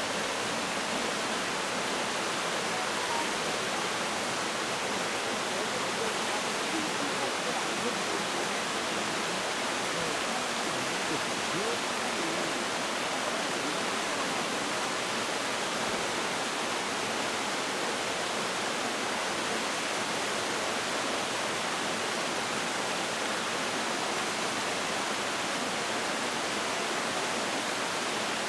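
Mountain valley stream with water rushing steadily.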